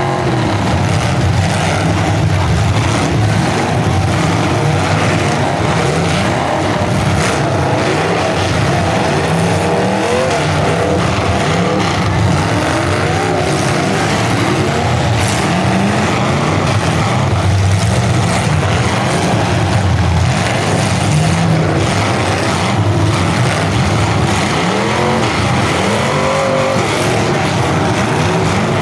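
Several full-size demolition derby cars running and revving hard together, their engine pitch rising and falling, with tyre squeal and a few sharp crashes as cars hit each other.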